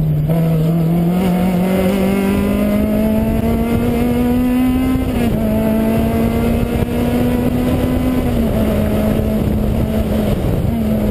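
Peugeot 106 rally car engine under load at speed: the revs climb steadily for about five seconds, drop sharply at an upshift, then hold fairly steady with a brief lift-off near the end.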